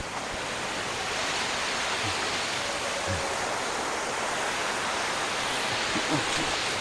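Steady rush of waterfall water falling and splashing, an even noise with a few faint brief low sounds around two, three and six seconds in.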